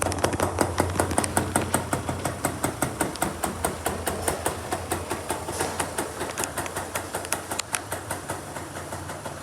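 Kawasaki KSR-2's 80cc two-stroke single-cylinder engine idling, with a regular popping of several sharp beats a second that slowly gets quieter.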